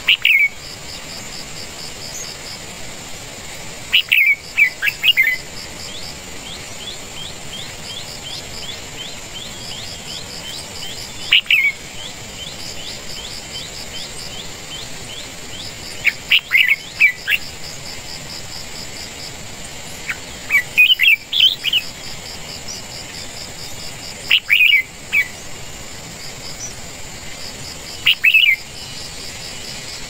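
Red-whiskered bulbul chirping at the nest: seven short bursts of sharp chirps, each burst two to five quick notes sliding down in pitch, spaced several seconds apart. A steady high insect trill runs underneath.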